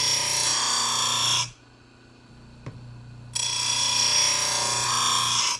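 Grinder wheel grinding the edge of a steel lawnmower blade, a loud steady grinding whine in two passes, about a second and a half and then two seconds long, with a short pause and a single click between them.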